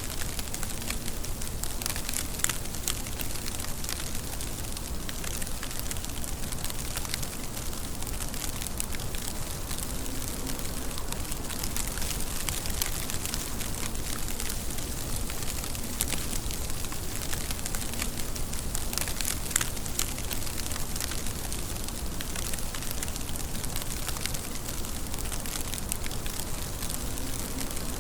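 Steady rain, an even hiss with many sharp individual drop strikes ticking through it.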